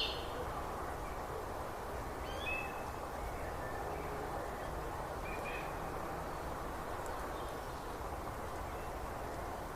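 Birds giving short chirps now and then, a couple of times, over a steady even background noise.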